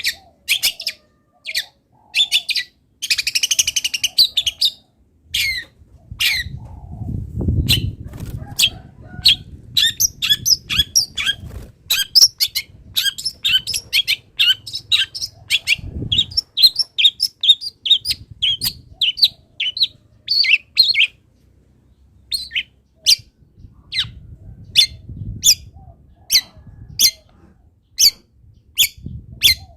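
Long-tailed shrike (cendet) singing loudly: a fast, varied run of short, sharp chirps, with a harsh chatter a few seconds in. Low rumbling noise comes in under the song a few times.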